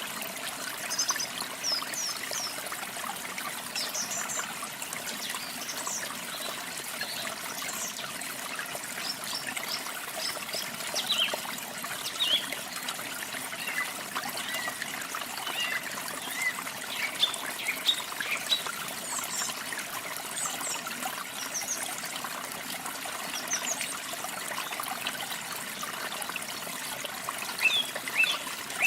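Steady trickling and splashing water of a small waterfall, with songbirds chirping and whistling in short, high notes scattered throughout.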